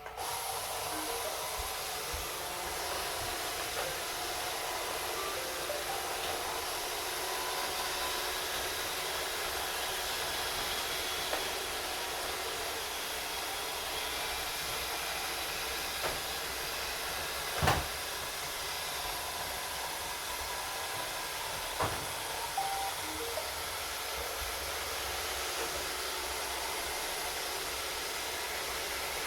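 Three Roomba robot vacuums running together, a steady whir of their vacuum motors and brushes. A few sharp knocks cut through it, the loudest about two-thirds of the way in, as they bump into things.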